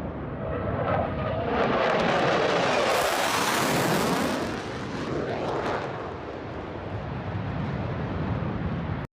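Fighter jet flying past: a jet rush that swells to its loudest a couple of seconds in, with its pitch sliding as it passes, then fades back to a steady rumble.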